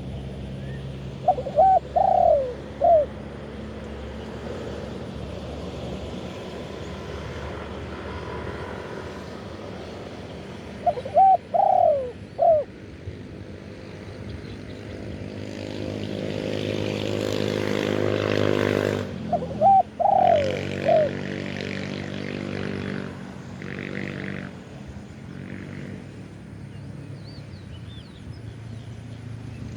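A spotted dove gives its short multi-note cooing call three times, about nine seconds apart. Between the second and third calls, a motor vehicle's engine hum builds for several seconds, then cuts off suddenly.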